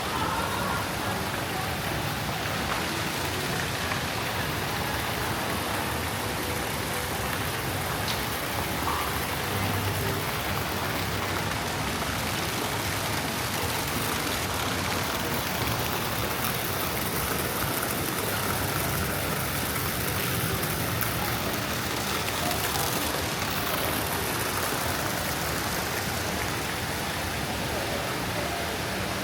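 Steady rushing of falling water, an even wash with no breaks.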